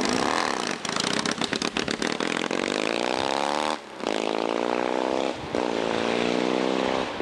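Motorcycle engine running under throttle, its pitch climbing steadily, then dropping out briefly twice before picking up again.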